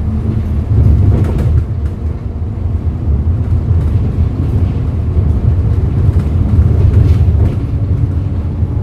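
CNG engine of a 2011 Hyundai Green City city bus running under way, a steady low drone with brief rattles about a second and a half in and again near the seventh second.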